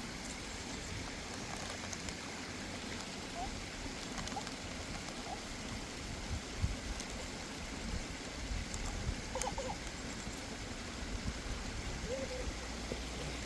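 Steady rush of running water with a few short bird calls scattered over it, most of them bunched together about nine seconds in.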